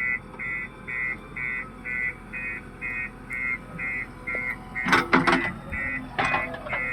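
Reversing alarm of a JCB 3DX backhoe loader beeping steadily, about two beeps a second. A couple of louder, sudden bursts break in about five and six seconds in.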